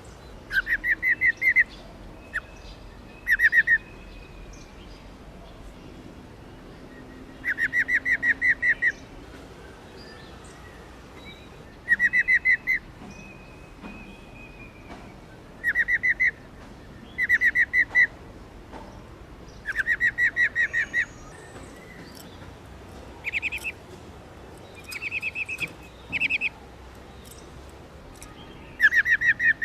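Female black-throated laughingthrush giving its rolling 'ro ro' call, the call played to rouse male birds: quick rattling runs of notes, repeated in short bursts with pauses of a few seconds between.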